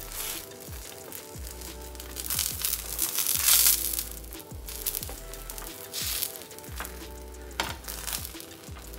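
Food sizzling as it fries in a pan, loudest for about a second and a half some three seconds in, over background music.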